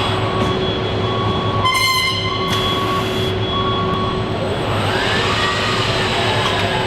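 Assembly-line machinery running with a steady hum, and a brief horn-like warning tone about two seconds in.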